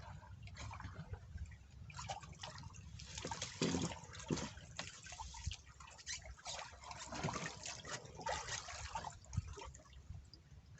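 Water splashing and dripping in irregular spatters, busiest in the middle, over a steady low rumble.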